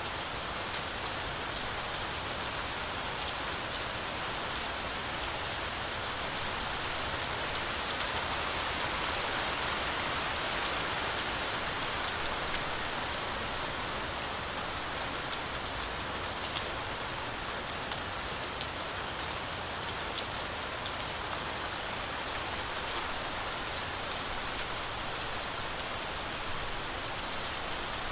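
Heavy rain falling steadily: an even hiss flecked with scattered drop ticks, swelling slightly about ten seconds in.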